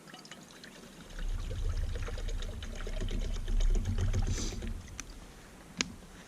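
Water being poured into a Jetboil stove's cooking cup, a gurgling pour that starts about a second in and runs for nearly four seconds. A single sharp click follows near the end.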